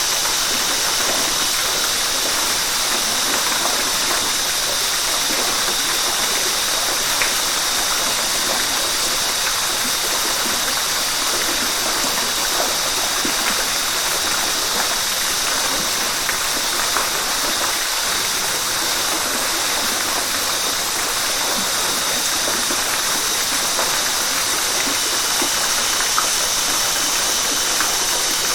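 River water rushing steadily, an even, unbroken hiss with most of its energy high up.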